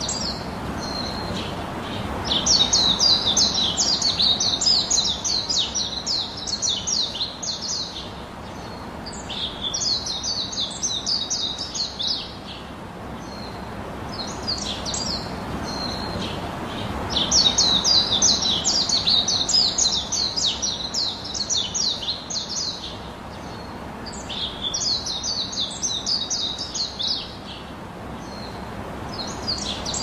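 Birds chirping in long bursts of rapid, high chirps lasting several seconds each, with a steady hiss beneath. The same bursts come back about every fifteen seconds.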